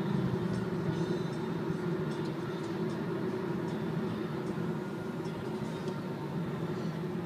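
Steady road and wind noise inside the cabin of a Nissan Leaf electric car at highway speed, easing off slightly as the car slows for traffic.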